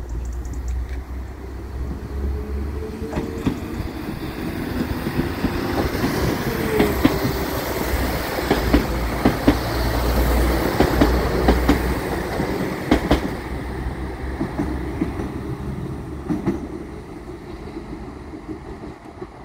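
Transport for Wales Class 197 diesel multiple unit running past along the platform. The engine hum and rail noise build to a peak as it passes, with a run of wheel clicks over rail joints, then fade as it draws away.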